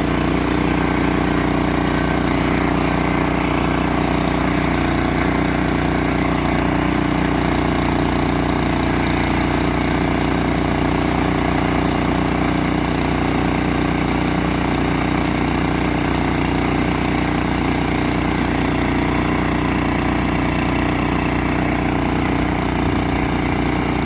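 Engine running steadily at one constant speed, with no change in pitch or loudness.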